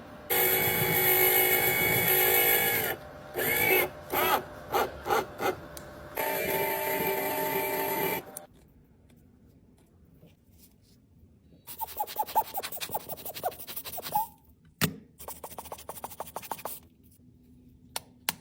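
Scraping and rubbing of a tool on a cosmetic product in separate passes: two long, steady, pitched scrapes, a silent pause, then a quick rattling run and a few sharp clicks.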